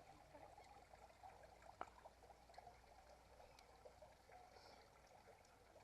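Faint, dense chattering of a large flock of birds, many small calls running together into a steady hiss-like murmur.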